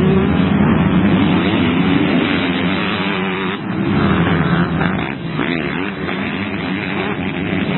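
Several motocross bike engines racing, revving hard, with their pitch rising and falling through throttle and gear changes.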